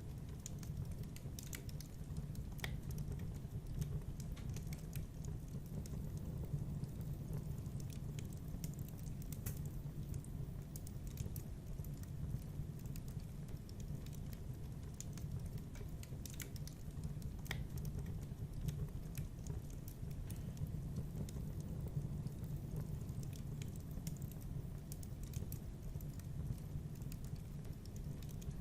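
Fire in a fireplace crackling: irregular sharp snaps and pops over a steady low rumble.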